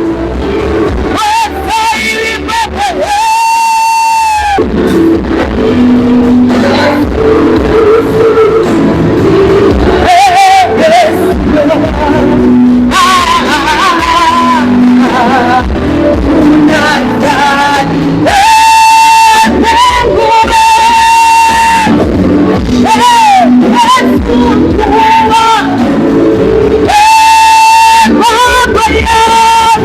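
Live church worship music: a voice singing long held notes over a band accompaniment.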